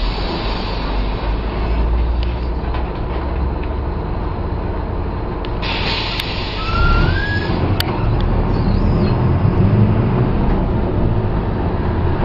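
Mercedes-Benz OF-1722M bus diesel engine running steadily, then the revs rise a little past halfway as it picks up speed. A short squeal rises and falls as the revs start to climb, and there is a sharp click a moment later.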